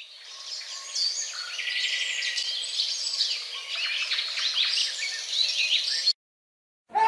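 Birdsong sound effect: several birds chirping, fading in at the start and cutting off abruptly about six seconds in.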